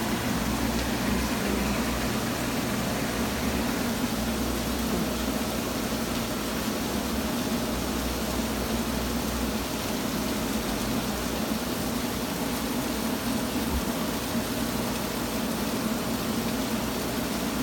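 Heavy rain falling steadily, an even hiss with a low steady hum underneath.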